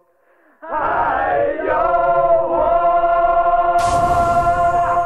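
The song's ending: after a brief pause, male voices singing together come in about half a second in, slide onto one long held final note over the accompaniment, and a cymbal crash sounds about four seconds in.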